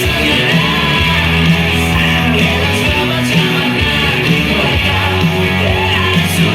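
Rock song played by a band: electric guitar and bass holding sustained notes over a steady drum beat with cymbal strokes.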